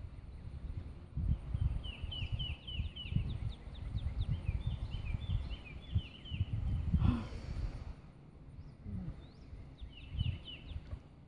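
A bird calling in quick runs of short, falling chirps, repeated several times, over low gusty rumbling on the microphone.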